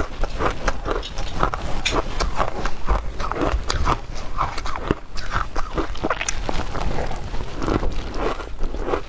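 Ice being chewed, an uneven run of crisp crunches.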